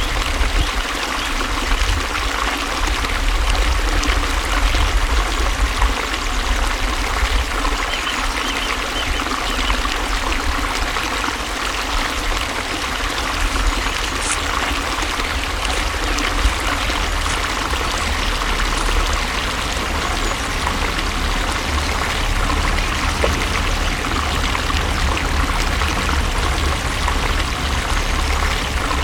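Flowing water running steadily, like a stream, with a continuous rush over a deep low rumble.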